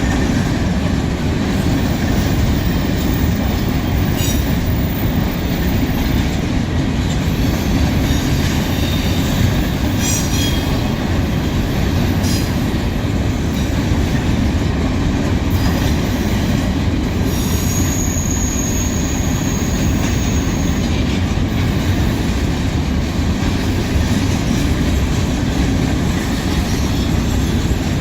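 Union Pacific manifest freight train rolling past, its cars making a steady rumble of wheels on rail. A high, steady wheel squeal sounds for a few seconds past the middle.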